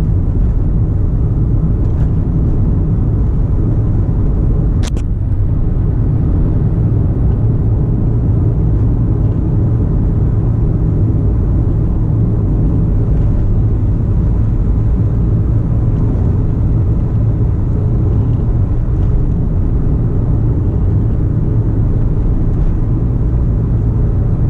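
Car on the move: a steady low rumble of engine and road noise, with one sharp click about five seconds in.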